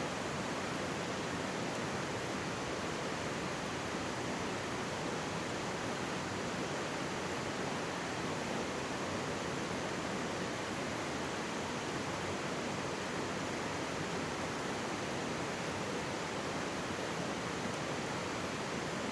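Mountain stream babbling steadily, an even rush of running water.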